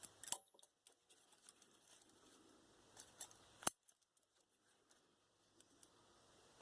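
Hand tools clicking and ticking against thick steel fencing wire as it is bent tighter, with a few sharp metallic clicks, the loudest about two-thirds of the way through, and faint ticks between.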